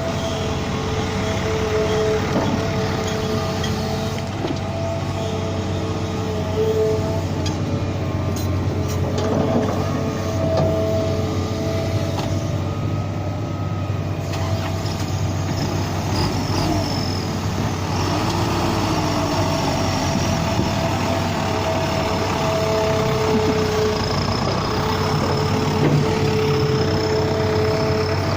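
Truck engine running steadily with road noise, with a high whine that comes and goes every few seconds.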